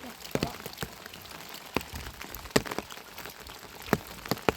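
Steady rain falling, with irregular sharp ticks and knocks scattered through it.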